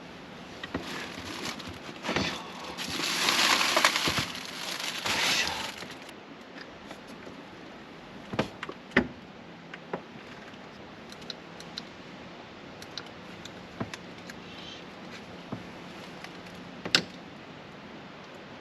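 Crinkling of plastic or packaging for about three seconds, then scattered sharp clicks and light knocks of objects being handled and set down, over a steady faint background hiss.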